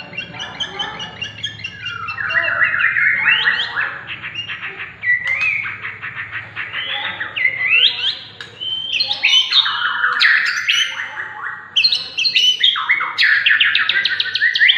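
White-rumped shama (murai batu Medan) singing in full voice: rapid phrases of rising and falling whistled notes and fast trills, with short gaps about five and eleven seconds in.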